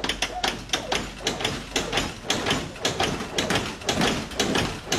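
A rapid, uneven run of knocks and clicks, several a second.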